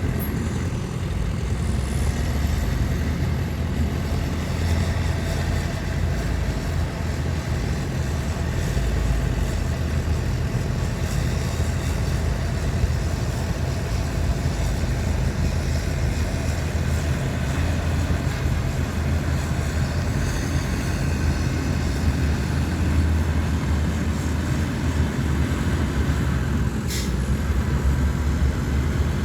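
Heavy earthmoving diesel engines of a bulldozer and dump trucks running steadily with a deep rumble; a short sharp click or hiss near the end.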